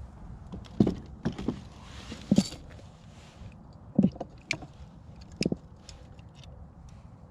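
Scattered hollow knocks and bumps against a plastic fishing kayak as things are moved around on board, over a low steady rumble.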